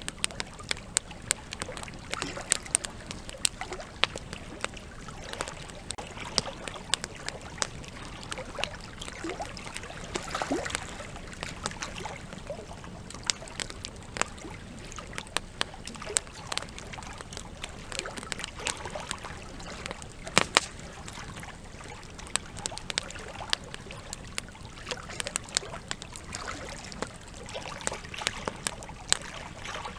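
Campfire crackling with frequent sharp, irregular pops, over the steady rush and trickle of a river. A loud double pop comes about two-thirds of the way through.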